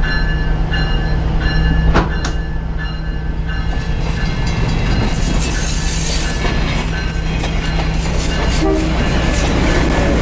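A locomotive and its railcars running, with a steady low engine drone and rail clatter. A ringing tone repeats about every three-quarters of a second, and there is a sharp knock about two seconds in.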